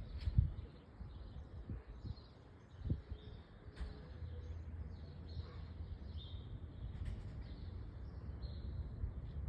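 Small birds chirping in short repeated phrases, over a low steady rumble with a couple of dull thumps near the start and about three seconds in.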